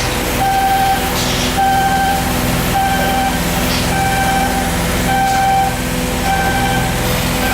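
Repeating electronic warning beeper, about one half-second beep a second, over a steady low machinery rumble.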